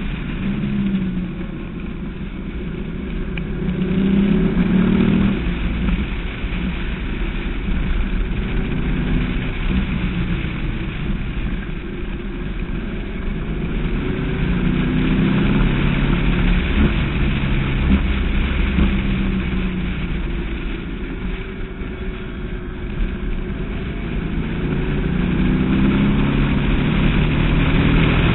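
Westfield Seight's V8 engine heard onboard at speed, its note swelling and easing several times as the car accelerates and lifts off through corners, over low wind and road rumble in the open cockpit.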